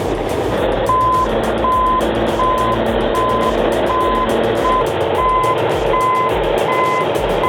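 Reversing alarm on a bulldozer beeping steadily, about one and a half beeps a second at a single pitch, as the machine backs up. The alarm starts about a second in, over the low running of the diesel engine.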